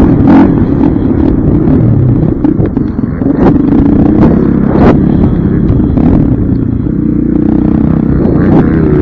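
Dirt bike engine running steadily, with a few sharp knocks and some clatter over it.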